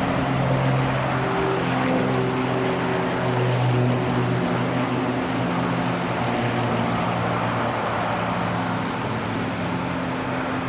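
Airplane engines passing: a steady rushing noise with a low hum under it, gradually easing off.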